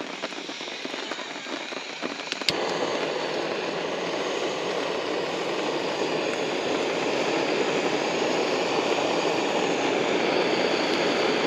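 Meat sizzling loudly in a hot pan. It starts suddenly with a click about two and a half seconds in, then runs as a steady hiss that grows a little louder. Before it, only faint scattered crackling ticks are heard.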